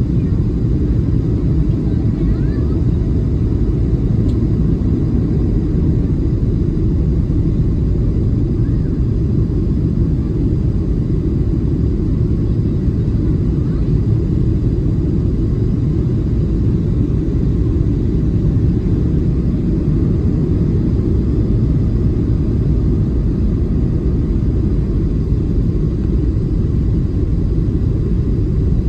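Steady low rumble of a Boeing 737-700 heard from inside the passenger cabin, its CFM56-7B jet engines running at an even setting with no rise or fall.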